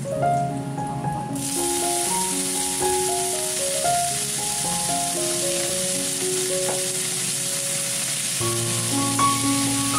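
Food stir-frying in a hot wok: a steady oil sizzle that starts suddenly about a second in. Background music plays throughout.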